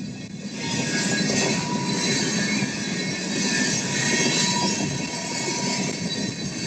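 Work train rolling along the rails, a steady wheel-on-rail rumble with thin, high wheel squeal running over it.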